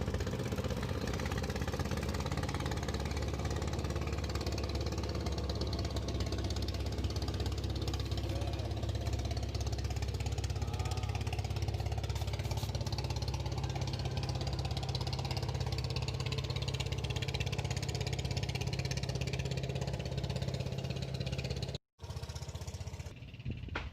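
A small engine running steadily at an even speed. It cuts off suddenly near the end and gives way to a different, quieter sound.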